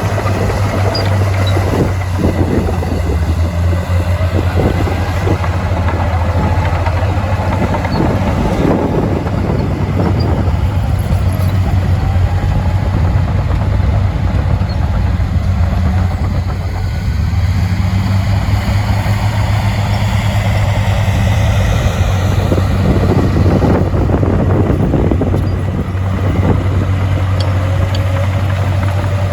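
Heavy diesel earthmoving machinery running under load: a steady deep engine drone whose pitch slowly rises and falls, with scattered metallic knocks.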